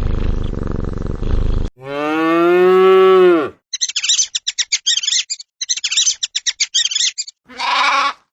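A cat purring, cut off about two seconds in, then one long cow moo that rises and falls in pitch. Two runs of rapid high chirps follow, and near the end a goat starts bleating.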